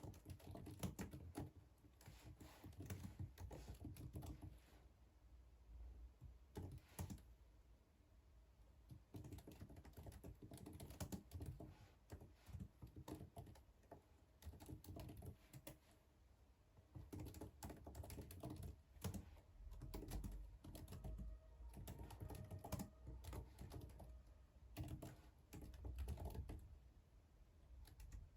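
Typing on a computer keyboard: quiet runs of rapid key clicks, broken by brief pauses.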